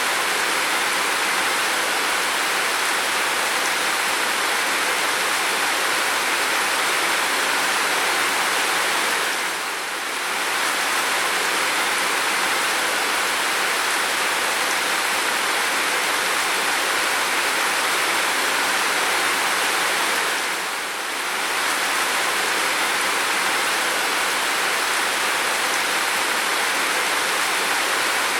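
Heavy rain pouring down steadily, a dense even hiss that dips softly for a moment twice.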